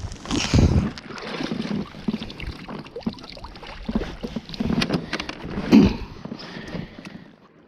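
A kayak being paddled and shifted on the water: irregular splashing and sloshing with several sharp knocks.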